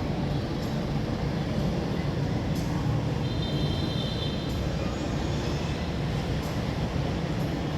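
Steady dense rumble of outdoor crowd and traffic noise, with faint sharp crackles every second or so and a brief thin whistle about halfway through.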